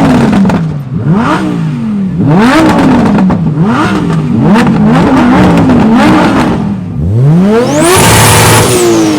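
A car engine being revved hard again and again, each blip rising sharply and falling back, then one long rev climbing to high revs and held about a second near the end before dropping away.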